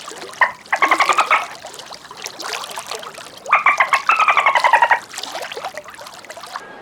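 A horse whinnying: a brief call, then two longer quavering calls. The last runs about a second and a half and falls slightly in pitch.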